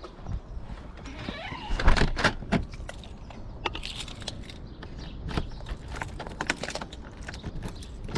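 Irregular clicks, knocks and rattles of things being handled, with the loudest knock about two seconds in.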